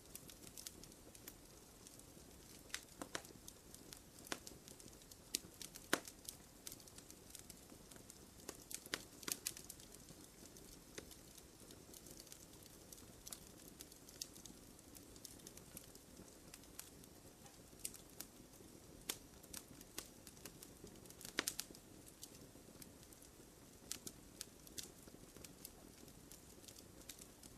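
Small wood fire crackling softly: a faint low hiss of burning with irregular sharp pops and snaps scattered throughout, a few louder pops among them.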